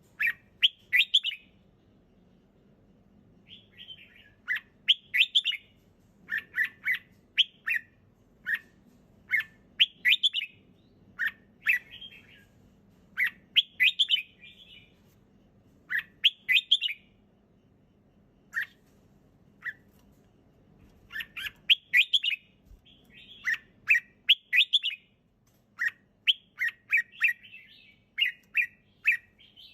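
Red-whiskered bulbul singing: short, quick phrases of bright chirping notes repeated every second or two. The song pauses briefly about two seconds in and thins to single notes around eighteen seconds.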